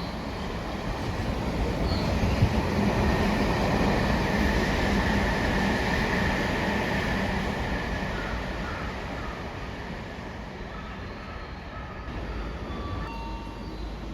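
Electric train running along the station platform, its rumble swelling over the first few seconds and fading away after about eight seconds, with a thin steady whine at its loudest.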